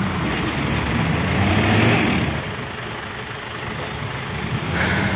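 Scania P480 timber truck's diesel engine pulling under load, its note rising and getting louder to a peak about two seconds in, easing back, then building again near the end.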